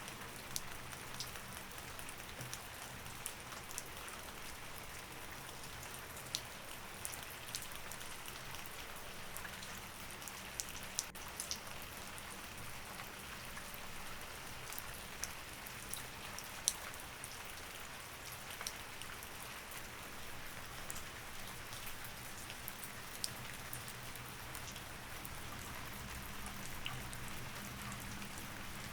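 Steady rain falling, an even hiss with many scattered individual drops ticking sharply on a surface.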